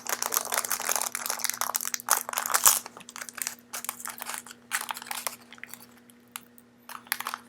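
Plastic wrapping on a trading card box crinkling and tearing as the box is opened, a dense crackle for about three seconds, then scattered rustles and clicks that thin out.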